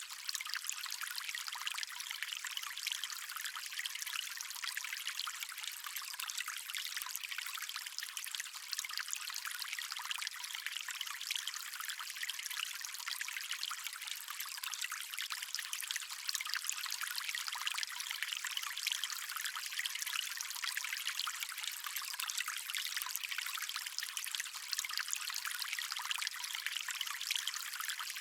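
Stream water running and trickling steadily, a thin, hissy wash with no low rumble.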